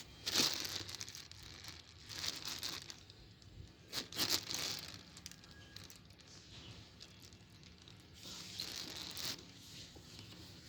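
Packaging being crinkled and torn in four separate bursts of rustling, the clearest just after the start, around 2 and 4 seconds in, and near the end.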